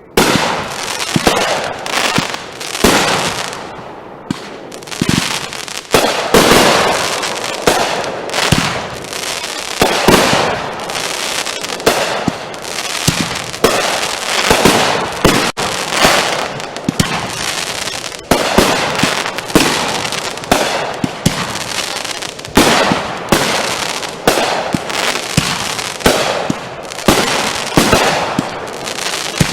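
Consumer fireworks going off in a dense barrage: sharp bangs every second or so over continuous crackling.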